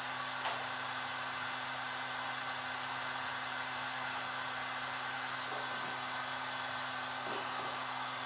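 Temperature-controlled heat gun running steadily: a constant hum with the hiss of its airflow, warming the adhesive under a phone's glass screen to release it. A single sharp click about half a second in.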